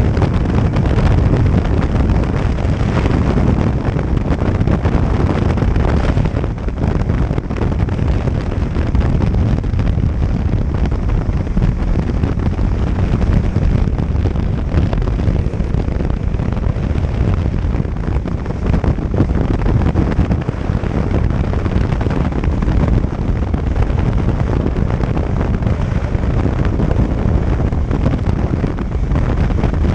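Jet ski under way: loud, steady wind rumble on the microphone mixed with the watercraft's engine and rushing water.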